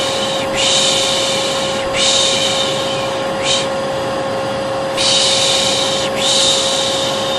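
Hair dryer running steadily with a constant hum, over which a person shushes 'pışşş' again and again, each shush about a second long, as white noise to calm a colicky baby. There is a longer pause in the shushing about halfway through.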